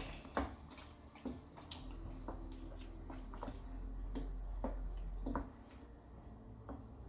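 Thick minced-beef lasagna sauce bubbling in a pan, with soft irregular plops about twice a second over a low hum.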